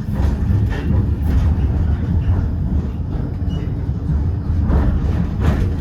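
Tram running along city tracks: a steady heavy low rumble of wheels and running gear, with a few short knocks.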